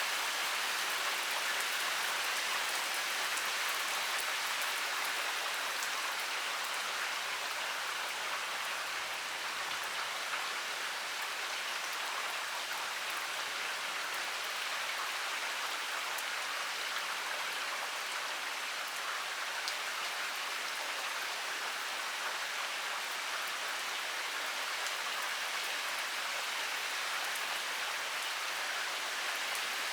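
Heavy rain pouring steadily, a dense even hiss of drops with fine scattered patters of individual drops striking surfaces.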